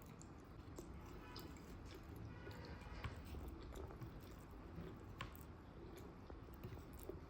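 A person chewing food close to the microphone: soft, wet mouth sounds with small scattered clicks.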